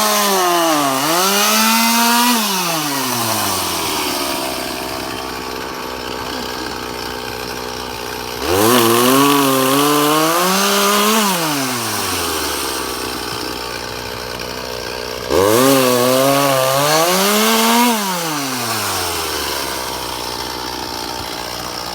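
Two-stroke chainsaw making three cuts: each time it is throttled up, its pitch sags under load and climbs again, then it winds back down to a steady idle between cuts.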